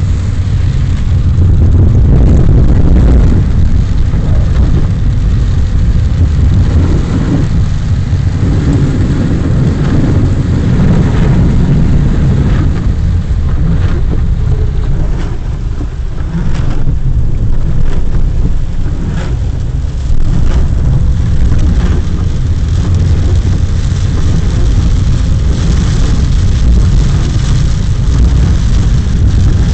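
A car driving in heavy rain: a steady low rumble of engine and road noise with the hiss of rain. It eases briefly about sixteen seconds in.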